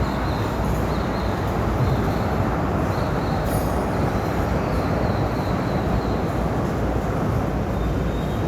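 Train rolling steadily across a railroad drawbridge, a continuous rumble of wheels on the rails and bridge.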